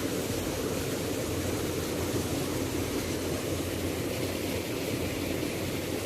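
Waterfall: water falling and rushing steadily, without a break.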